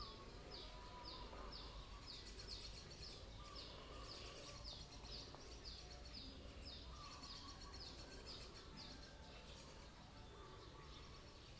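A bird giving short, high chirps that each fall in pitch, repeated about twice a second, over faint outdoor background noise; the chirping stops about nine seconds in.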